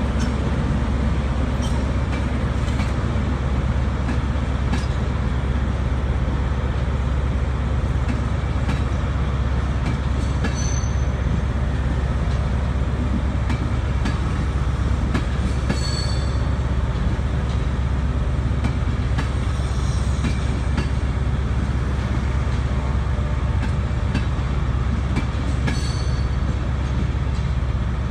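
Mark 4 passenger coaches of an InterCity 225 set rolling slowly past along the platform: a steady low rumble, with wheels clicking over rail joints and a few brief high wheel squeals.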